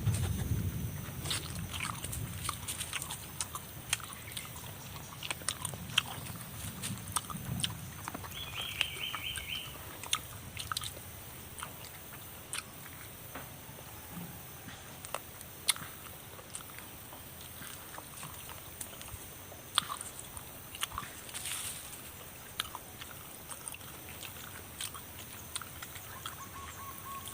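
Close mouth sounds of eating spicy chicken feet and noodles: chewing and biting, with sharp smacks and clicks at irregular intervals. A short high trill sounds once about nine seconds in.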